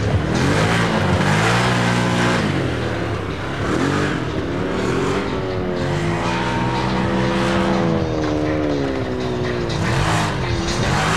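Off-road race car engines revving hard, their pitch repeatedly climbing and dropping as they accelerate and lift off, with more than one engine heard at once over a steady low engine drone.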